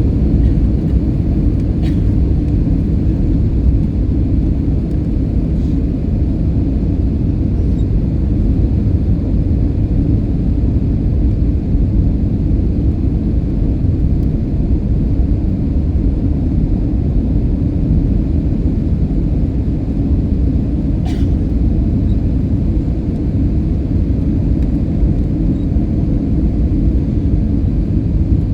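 Steady low rumble of an Airbus A320-200 heard from inside the cabin: engine and airflow noise as the airliner comes in to land. A couple of faint clicks sound over it.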